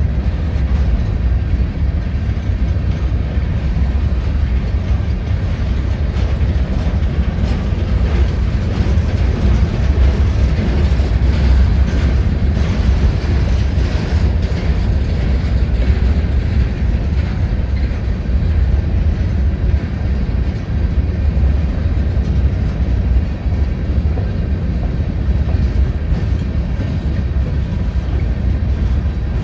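Freight train rolling past, a steady low rumble of wheels and cars on the rails that holds at the same level throughout.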